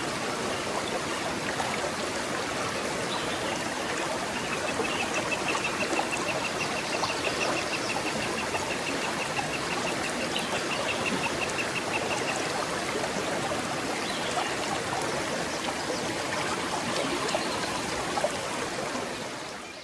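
Forest stream flowing steadily over rocks, an even rushing and trickling. From about four seconds in, a bird repeats a rapid high note, several times a second, for about eight seconds. The water fades out right at the end.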